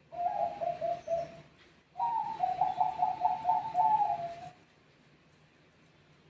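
Zebra dove (Bangkok perkutut) singing: a short phrase of quick cooing notes, then after a brief pause a longer, faster run of notes that starts higher and steps down.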